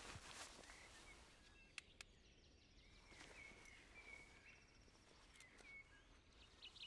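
Near silence: faint outdoor night ambience, a low hiss with a few soft, short chirps and a couple of small clicks.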